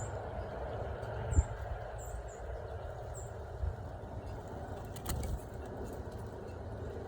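Small birds giving short, high-pitched chirps, about five in the first three and a half seconds, over a steady low background rumble; a sharp click about five seconds in.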